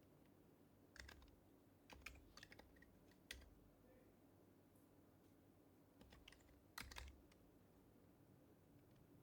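Soft keystrokes on an HHKB Professional HYBRID Type-S keyboard with Topre capacitive switches, typed in a few short bursts with pauses between them.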